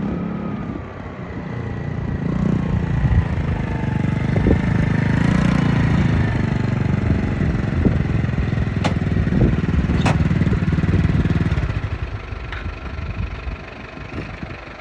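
A motor running steadily with a low rumble and a faint wavering whine. It builds up about two seconds in and dies down near the end, with a couple of sharp clicks in between.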